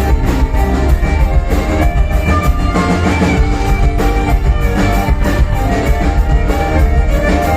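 Folk-rock band playing an instrumental passage: guitar over a steady drum-kit beat, without vocals.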